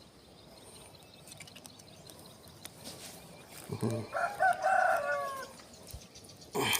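A rooster crows once, about four seconds in, over a quiet background.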